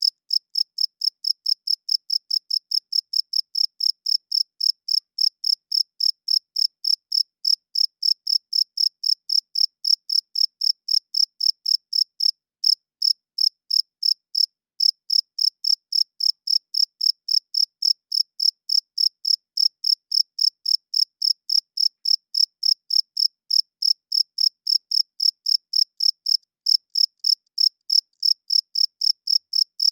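Cricket chirping: a steady, high-pitched train of short chirps, about three a second, keeping an even rhythm throughout.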